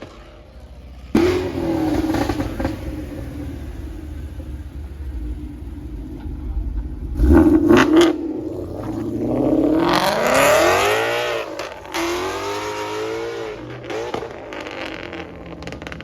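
Car engine revved hard several times, its pitch climbing and dropping with each blip of the throttle, with a few sharp pops about seven to eight seconds in.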